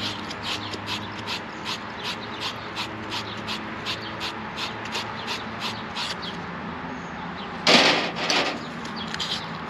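Rhythmic hand scraping on copper pipe, short even strokes about three a second over a faint steady hum, with one louder, longer rasp near the end.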